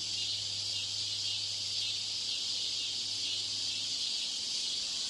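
Steady high-pitched hiss with a faint low electrical hum that fades out about four seconds in: the added background noise simulating a poor exam-hall PA broadcast.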